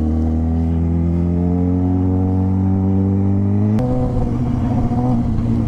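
Motorcycle engine accelerating, its pitch rising steadily, then an upshift about four seconds in with a click and a sudden drop in revs before it pulls on.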